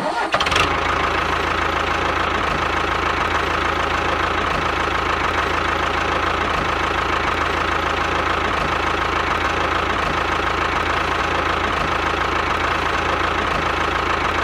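Small engine of a mini DIY tractor running steadily at an even speed, with a steady high whine over a low hum.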